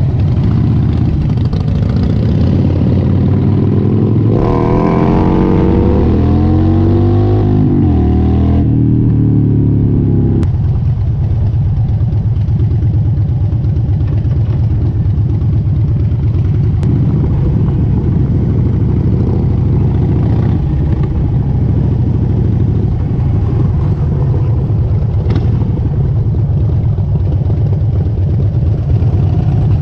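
Harley-Davidson motorcycle V-twin engine on the road. For the first ten seconds or so its pitch rises and falls as it accelerates and shifts gears, then it runs steadily at cruising speed.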